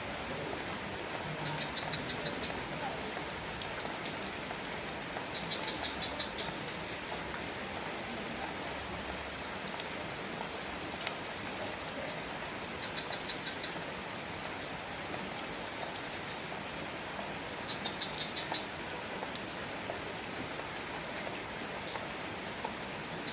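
Steady rain falling, an even hiss with scattered sharp drip clicks. A short, high, rapidly pulsed chirp from a small animal sounds four times through it.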